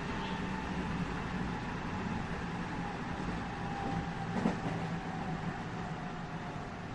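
Interior running noise of a JR West 207 series electric train car: a steady rumble of wheels on rail with a faint steady whine. A single sharp knock about four and a half seconds in.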